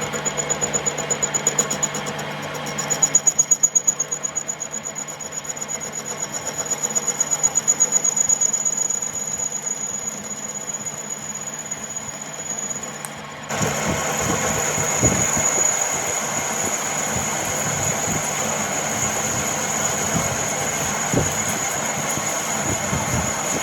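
Workshop machinery running steadily with a low hum and a high whine, pulsing in loudness at first; about halfway through it cuts abruptly to a louder, rougher machining noise.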